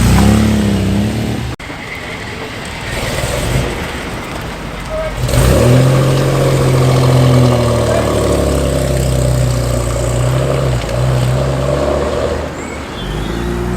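Car engines driving off and accelerating, as classic cars pull away one after another. About five seconds in, one car's engine note rises as it pulls away, then holds fairly steady.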